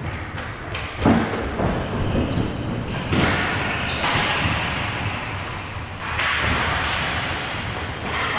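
Game-play noise in a hockey rink: a sharp knock about a second in, scattered thuds, and stretches of rushing, scraping noise, echoing in a large hall.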